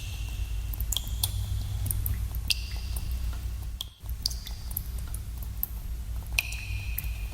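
Water drops falling into a pool in a cave, echoing. Each is a short plink with a ringing pitched tail that fades, coming at irregular intervals of about a second, over a steady low rumble.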